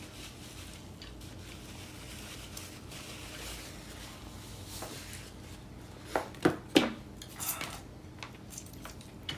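Table eating sounds: utensils and takeout containers handled quietly, with a few sharp clicks and taps about six to seven seconds in.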